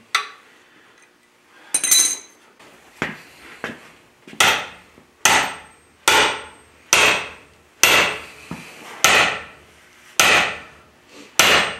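About a dozen evenly paced hammer blows on steel, a little under a second apart, each ringing briefly: driving a cam bearing into its bore in a Caterpillar D4D engine block.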